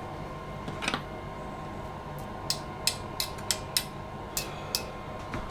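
A run of sharp clicks and taps from kitchen utensils, about eight in two seconds, over a steady background hum. One more click comes about a second in.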